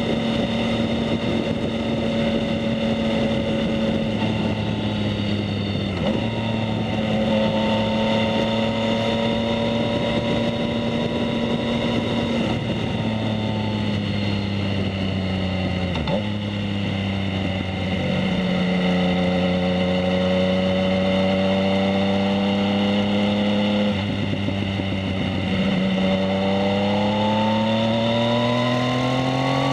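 2019 Yamaha MT-09's inline three-cylinder engine running through a Two Brothers S1R full exhaust while being ridden at fairly steady throttle. The engine note breaks off briefly several times as gears change, and the pitch climbs steadily near the end as the bike accelerates.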